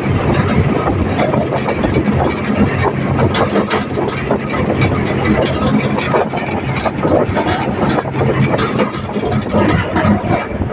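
Tractor engine running steadily while driving, with a constant low hum and loose rattling and clatter on top.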